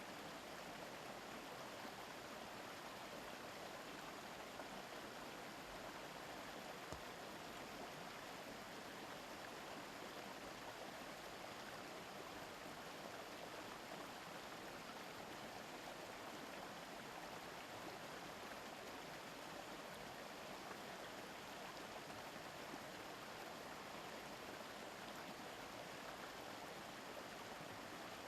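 A mountain stream babbling over rocks: a steady, even rush of running water, unbroken throughout.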